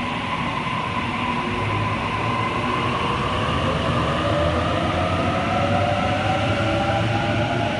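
Series 1 Waratah electric train pulling out, its traction motors whining in several tones that slowly rise in pitch as it accelerates.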